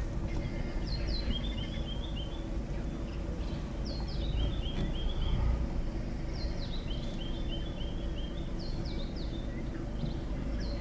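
A songbird repeats the same short phrase four times, about every three seconds: two or three quick high falling notes, then a run of about five short notes. A steady low hum and rumble runs underneath.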